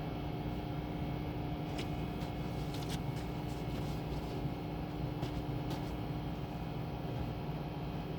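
Steady mechanical hum of car wash tunnel machinery, heard from inside a car, with a few light clicks about two seconds in and again about five seconds in.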